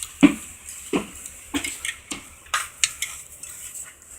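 A series of sharp metallic clinks and knocks at irregular intervals, about one every half second to second, each ringing briefly.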